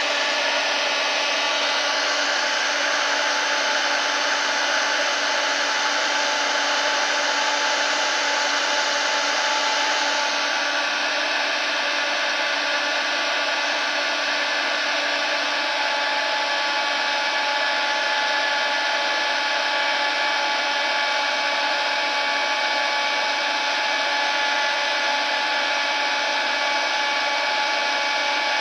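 Hair dryer running steadily: an even rush of blown air with a faint steady whine on top, changing slightly in tone about ten seconds in.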